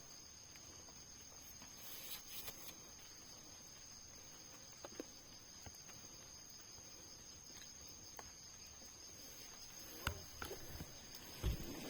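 Faint steady high-pitched insect drone. A few sharp knocks and scuffs near the end.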